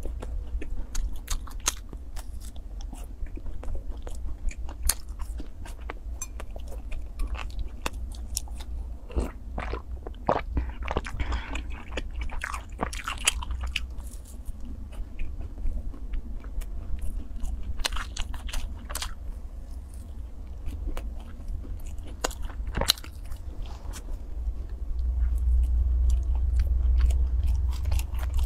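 Close-miked biting and chewing of sachima, the fried-dough and syrup pastry with raisins: an irregular run of small crackling, crunching clicks. A steady low hum lies underneath and grows louder near the end.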